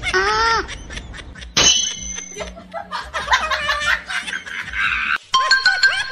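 Snickering laughter and music, opening with a short call that bends up and down in pitch.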